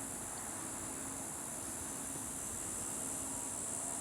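Steady, high-pitched chorus of crickets, unbroken, over a faint background hiss.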